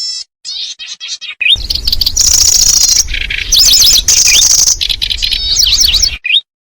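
Kecici belalang (lanceolated warbler) calls played as a bird-lure recording. A few short chirps open it. From about a second and a half in comes a dense stretch of high buzzy trills and quick up-and-down notes over a noisy rumble, which cuts off just before the end.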